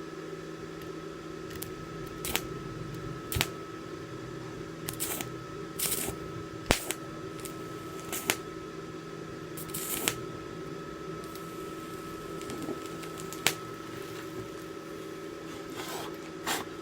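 Steady hum of an inverter arc welding machine, broken by scattered sharp crackles and a few short hissing bursts as the welding arc sputters and strikes intermittently.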